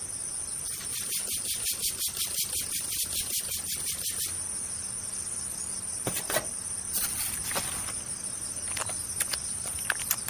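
Insects trilling with a steady high-pitched tone. In the first few seconds it pulses about five times a second, and scattered sharp clicks follow later.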